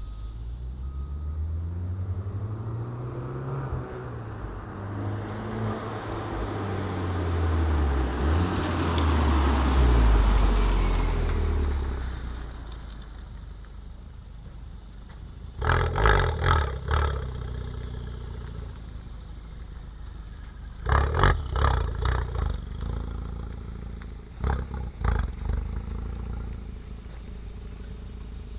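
Honda Civic Type R FK8's 2.0-litre turbocharged four-cylinder through a Remus valved cat-back exhaust with the valves fully open, accelerating past in a drive-by, its pitch climbing through the gears and loudest about ten seconds in before fading away. Later come three short bursts of sharp popping and crackling.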